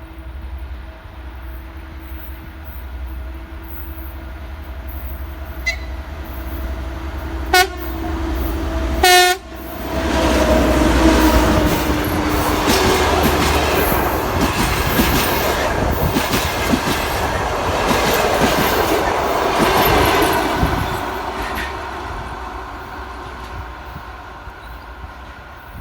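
TEP70BS diesel passenger locomotive approaching with its engine humming, giving three short horn blasts, the last the loudest, as a greeting. It then passes with its train, wheels and carriages clattering loudly over the rails, the noise slowly fading away.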